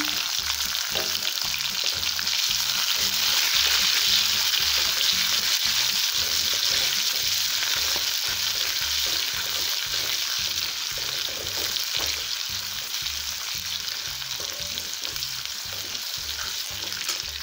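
Sliced onions sizzling in hot oil in a metal kadai, just tipped in, with a steel spoon scraping and stirring through them. The sizzle eases slowly toward the end.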